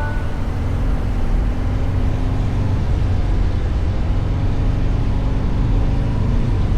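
Harley-Davidson Street Bob's Milwaukee-Eight 117 V-twin running under way at a steady pace: a steady low rumble whose pitch drifts slightly up and down.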